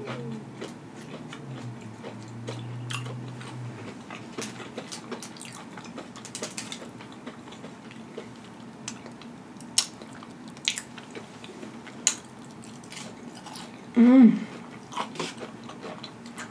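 Close-miked chewing and crunching of fried onion rings, with scattered sharp mouth clicks and crunches. About 14 s in there is one short, loud, pitched hum from the eater.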